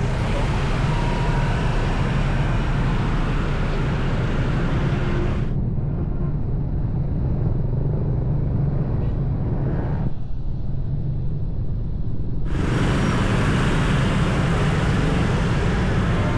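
Steady rumble of a motorbike ride through road traffic: engine, tyre and passing-vehicle noise. The high hiss thins out for several seconds in the middle and returns.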